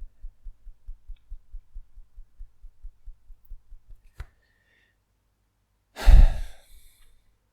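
Fingertips tapping the side of the palm (the EFT karate-chop point) as soft, even thumps, about six a second, stopping about four seconds in. A deep sigh follows near the end and is the loudest sound.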